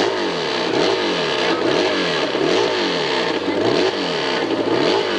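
Hillclimb motorcycle engine being revved up and down over and over, its pitch rising and falling in even cycles a little faster than once a second.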